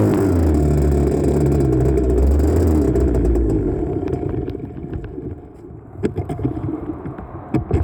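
1984 Honda CR80R's 80cc two-stroke engine running, then dying out about three to four seconds in; the rider puts the stall down to running low on fuel. Scattered knocks and clatter follow once the engine has stopped.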